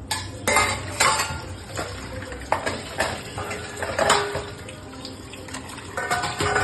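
Dishes and cutlery clinking and clattering irregularly as they are washed by hand at a sink.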